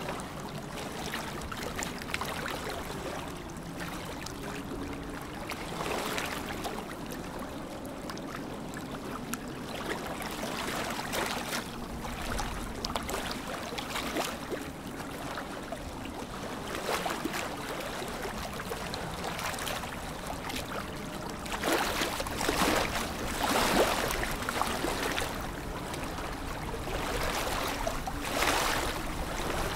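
Lake water lapping and splashing in small waves, a steady wash of little splashes. It swells louder about two-thirds of the way through and again near the end.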